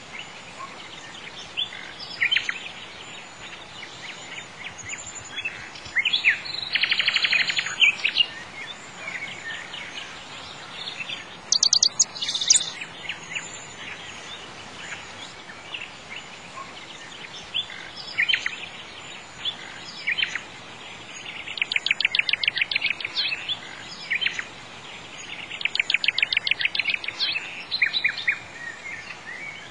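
Birdsong: birds chirping, with several bursts of fast trilled notes a few seconds apart over a steady background hiss.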